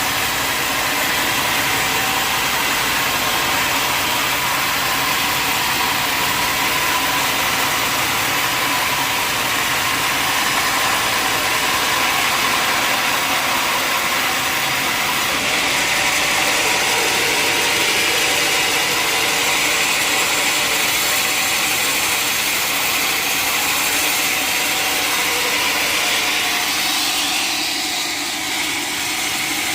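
Sawmill machinery running steadily: a loud, continuous mechanical noise with a high whine. The loudness dips briefly near the end.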